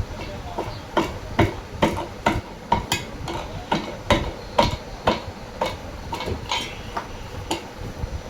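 Repeated sharp metal knocks and clinks, roughly two a second, from tools striking parts of a front-load washing machine during disassembly.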